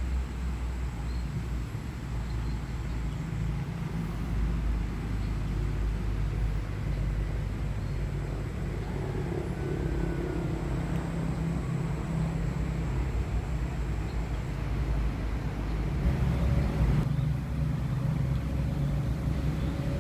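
Steady low outdoor rumble with a faint high thin tone over it for much of the time.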